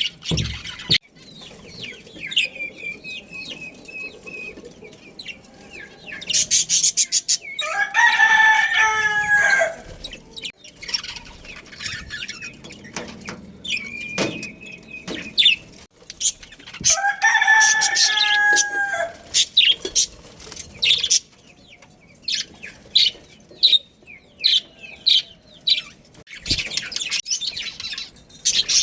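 A rooster crowing twice, each crow about two seconds long, with small birds chirping and twittering around it.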